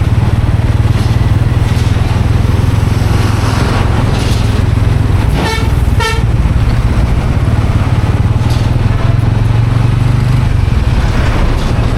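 Bajaj Pulsar N160's single-cylinder engine running steadily at road speed, with a constant low rumble. A horn honks twice in short bursts about halfway through.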